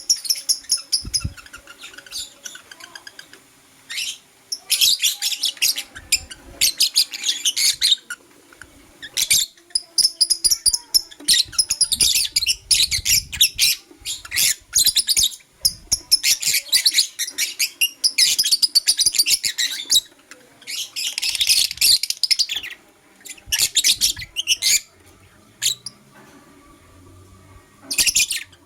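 A lovebird chirping in bouts of rapid, shrill chatter, with short pauses between the bouts.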